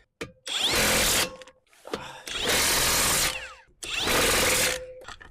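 Power tool run in three short bursts of about a second each, driving the fasteners home as a wheel is finished on a car.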